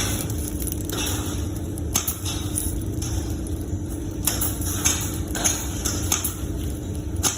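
Scattered sharp clicks and knocks, about six of them at uneven intervals, over a steady low hum.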